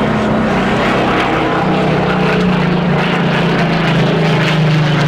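Supermarine Spitfire PR.XIX's Rolls-Royce Griffon V12 engine and propeller in flight during a display pass, a steady loud engine drone.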